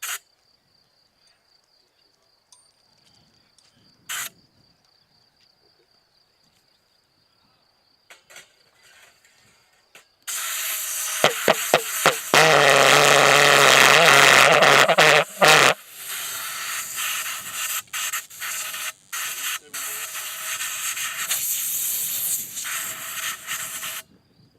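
Model Pulso pulsejet starting: stuttering pops at first, then catching and running very loud and harsh, with brief dropouts, before stopping abruptly near the end. A cricket chirps steadily before it starts.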